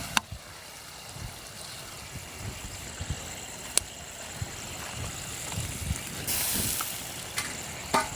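Curry gravy simmering and bubbling in a pan over a wood fire, soon after water has been added to the frying masala. A few sharp clicks sound through it, and a brief hiss comes a little after six seconds in.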